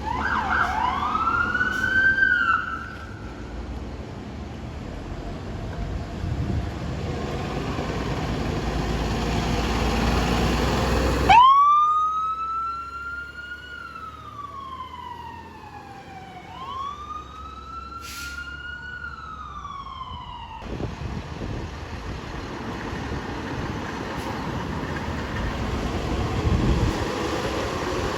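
Emergency-vehicle sirens wailing, each rise quick and each fall slow: once near the start, twice in a row from about eleven seconds in, and starting again at the very end. Between them runs the low rumble of heavy vehicles and traffic on the road.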